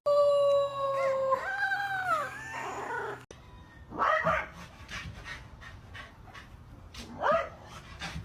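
A dog howling: one long, steady note that then bends and falls away. It is followed by two short, rising whines about three seconds apart.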